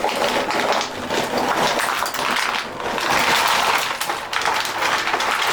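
Continuous busy clatter and rattle of many small hard 3D-printed plastic pieces being moved and jostled together by hand.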